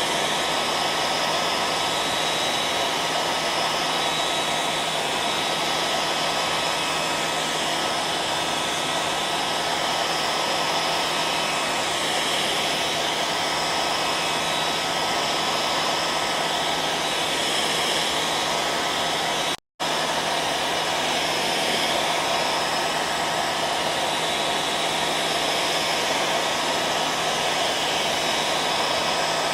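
Hair dryer running steadily: a continuous blowing hiss with a steady motor whine through it. The sound cuts out for a split second about two-thirds of the way through, then resumes unchanged.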